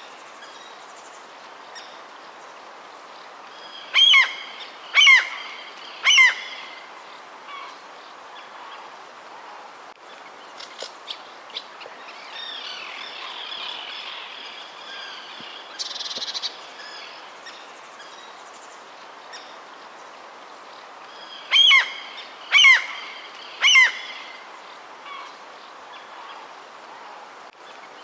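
A bird giving a loud call three times, about a second apart, each call dropping in pitch; the same three-call run comes again about 18 seconds later. Softer chirps and small ticks lie between the runs, over a steady outdoor background hiss.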